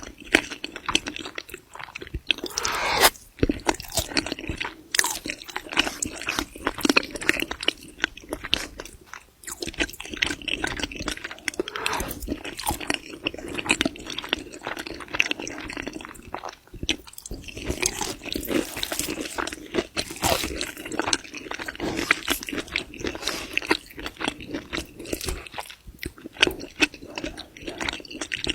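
A person chewing a meal of polenta, egg, sour cream and pork cracklings, with wet mouth sounds and many crisp crunches throughout.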